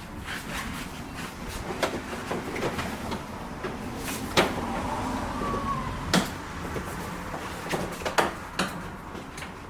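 Irregular sharp clicks and knocks of car body parts and fasteners being handled and worked on, with a brief squeak about five and a half seconds in.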